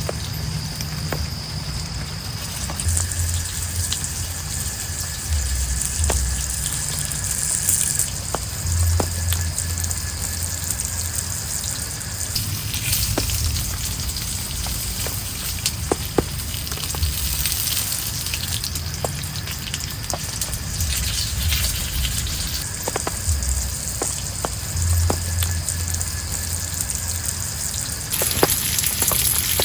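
Steady hiss of heavy rain with many scattered drops ticking; the high hiss grows stronger near the end.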